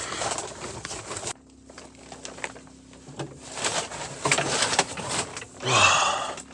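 Handling noise from pipe work: rustling and scraping with scattered clicks and knocks as PEX pipe, fittings and insulation are handled. A steady low hum comes in after about a second, and there is a short, loud breathy sound near the end.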